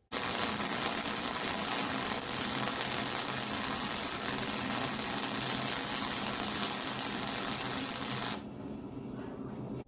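A power tool runs steadily at high speed for about eight seconds, starting and stopping abruptly.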